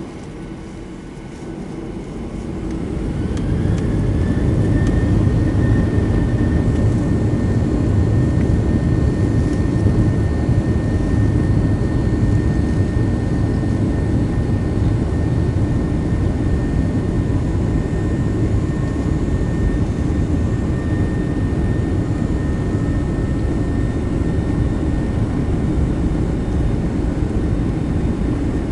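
Boeing 737's jet engines spooling up to takeoff thrust, heard from inside the cabin. The rumble swells over the first few seconds while a whine rises in pitch, then both hold steady and loud through the takeoff roll.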